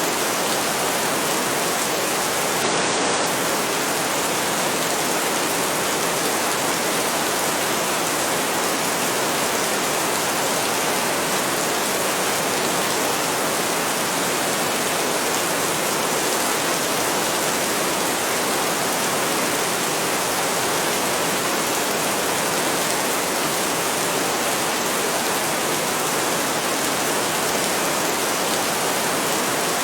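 Heavy rain falling steadily, an even hiss that does not rise or fall.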